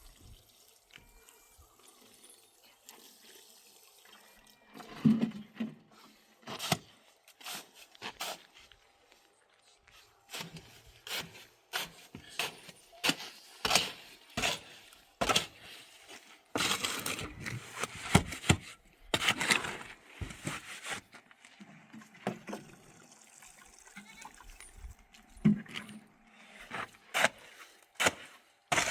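Irregular knocks, taps and scraping noises, one after another, busiest and loudest around the middle.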